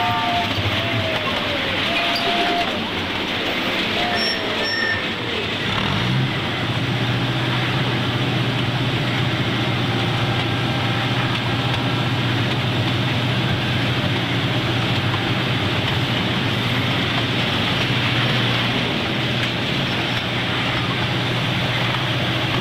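Diesel-powered Casey Jr. Circus Train ride running, heard from aboard a car: a steady rolling noise of the train on its track, joined about six seconds in by a low, steady engine drone that holds.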